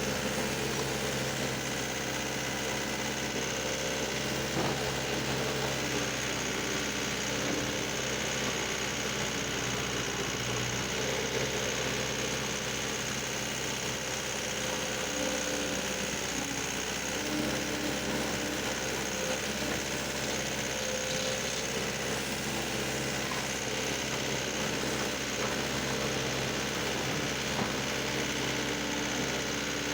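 Tractor diesel engine idling steadily, with an even running hum and no change in speed.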